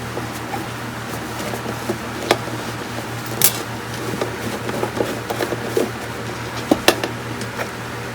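Scattered light clicks and taps of hand tools and parts being handled during circuit-board repair work, over a steady low hum. There is one sharper click about halfway and a quick pair near the end.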